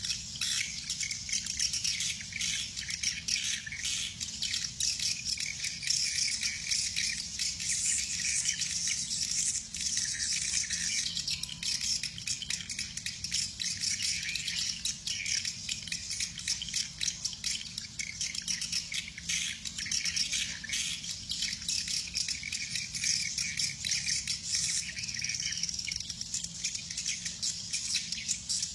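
A dense chorus of swiftlets chirping and twittering, many high calls overlapping without a break.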